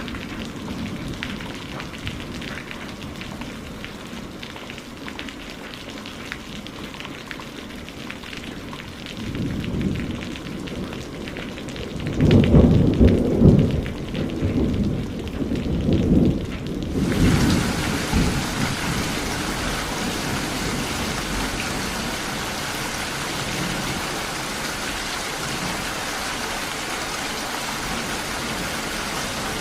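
Steady rain falling, with rolling thunder rumbling twice around the middle, the louder roll about 12 seconds in. About 17 seconds in the rain suddenly turns into a harder, hissier downpour that holds steady.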